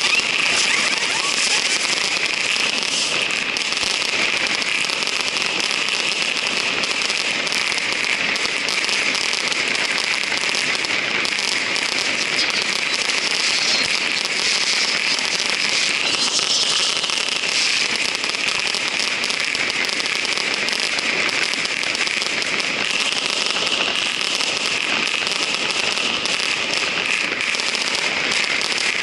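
Firecrackers going off in a dense, unbroken crackle, hundreds of small bangs running together with no pause, at a steady loud level.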